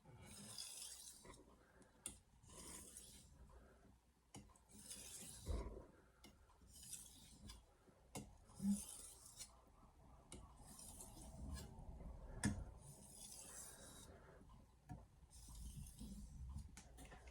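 Knife blade drawn across a wet 1000-grit soaking whetstone in slow, even strokes, about eight of them, each a soft hiss roughly a second long, with a few light knocks between strokes.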